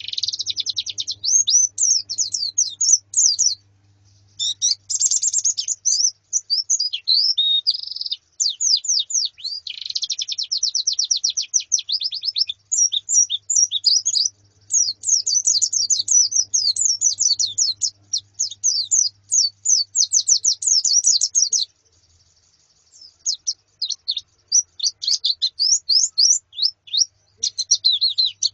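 Female and flocking white-eyes (pleci) chirping and twittering in fast runs of high, sweeping notes, with a few short pauses.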